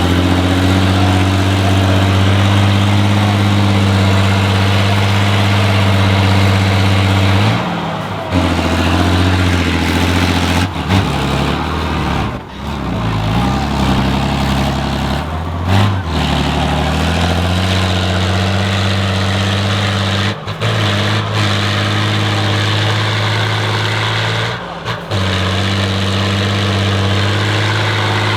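Heavy off-road trial truck's engine running loud and steady, its pitch dropping and shifting a few times about a third of the way in as the load changes, then settling back to a steady note.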